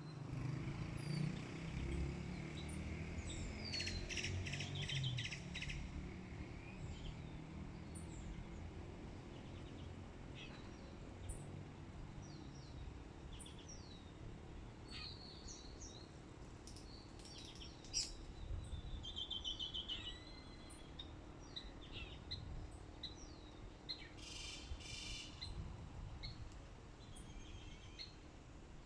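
Wild birds chirping and calling, with a rapid trill about four seconds in and another near the end, over a low steady hum. A single sharp tap sounds just past halfway.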